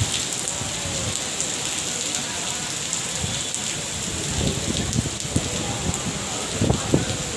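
Steady rain falling and pattering on surfaces, with a few short low thuds of heavier drops in the second half.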